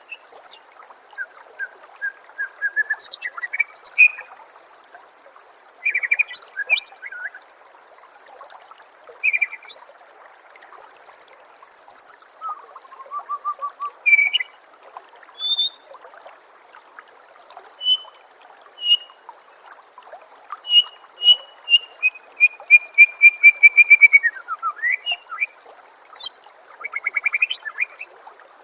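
White-rumped shama (murai batu) singing a string of varied whistled phrases, glides and trills, with a fast run of repeated notes about two-thirds of the way through, over a steady trickle of running water.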